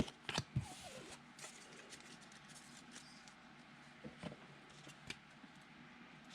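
Faint handling of trading cards: scattered soft clicks and rustles, a few close together near the start and a couple more after about four seconds.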